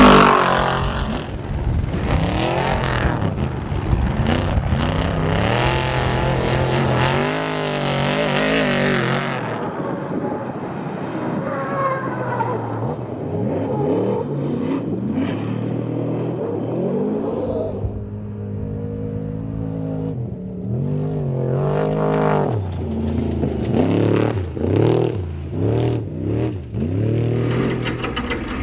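Off-road race truck engines revving hard and accelerating, their pitch repeatedly climbing and falling as the trucks run and pass, with a run of short, quick revs near the end.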